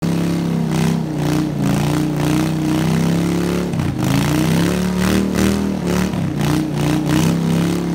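Small engine running hard at high speed, its pitch wavering slightly, with a brief dip about four seconds in.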